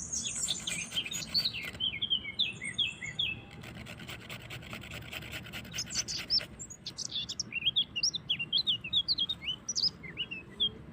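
Small birds chirping and twittering in quick, high notes that rise and fall. A rapid scratchy rubbing sound runs under them and stops a little past halfway.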